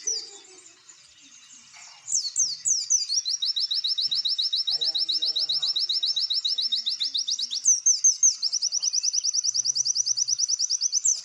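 A small songbird singing a fast, high trill of rapid down-slurred notes, about ten a second, in long runs broken by a few louder, drawn-out slurred notes. The song starts after a pause of about two seconds.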